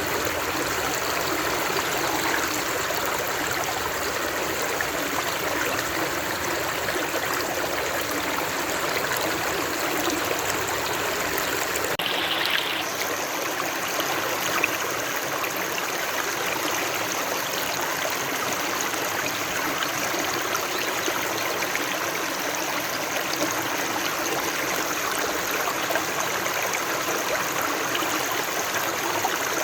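Flowing water rushing and trickling steadily, like a stream, with a brief shift in the sound about twelve seconds in.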